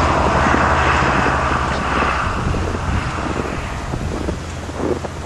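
A road vehicle passing and fading away, its tyre and engine noise dying down over a few seconds, with wind buffeting the microphone.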